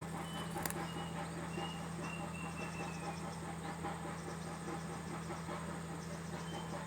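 Small birds giving short, thin, high peeps every second or so over a steady low hum, with a single click just under a second in.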